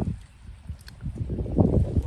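Wind buffeting the microphone in low, irregular gusts, easing for about a second and then picking up again.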